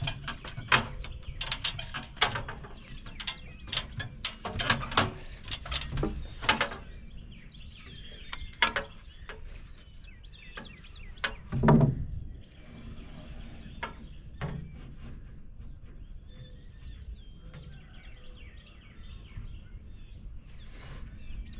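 A quick, irregular run of sharp clicks and knocks from carpentry work on the timber frame, then a single heavy thump near the middle. After the thump, small birds chirp faintly.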